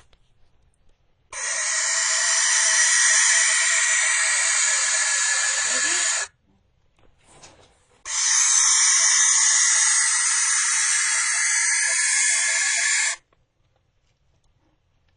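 Young barn owl screaming: two long, harsh, breathy screeches of about five seconds each, with no clear pitch, each starting and stopping abruptly, about two seconds apart.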